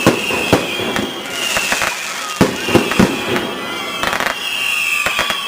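Fireworks display: sharp bangs of bursting shells, several in quick succession, with spells of rapid crackling and high whistling tones that fall slightly in pitch.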